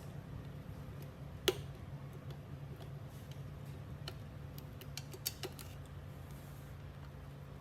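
Scattered sharp clicks and light taps, the loudest about a second and a half in, over a steady low hum.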